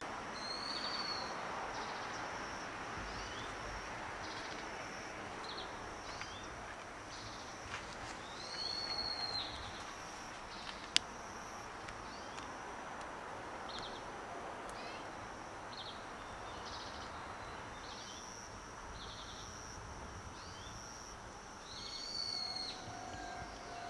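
Outdoor ambience with a steady background hiss and birds calling: a short arching high call heard three times, with brief chirps in between. A single sharp click about eleven seconds in.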